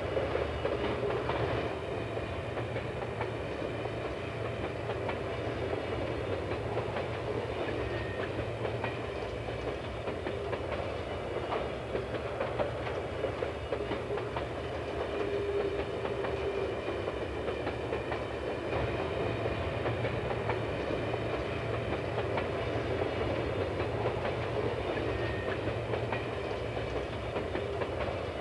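A train running steadily along the track, its wheels clattering over the rails with a continuous rumble.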